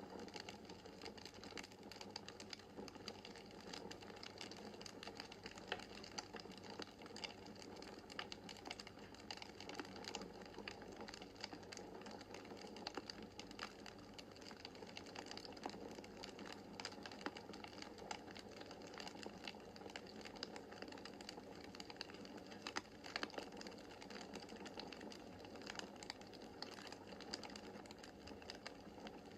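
Wood fire crackling steadily, with frequent small snaps and pops over a soft hiss of the flames.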